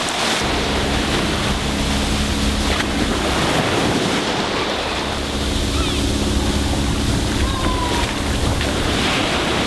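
Ocean surf washing on the beach, with wind buffeting the microphone. A steady low hum runs under it twice, for about three and four seconds.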